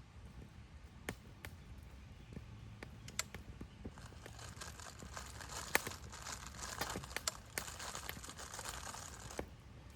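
A campfire gives sharp pops now and then. About four seconds in, a dense crumpling crinkle starts up, thick with pops, runs for about five seconds and then cuts off suddenly.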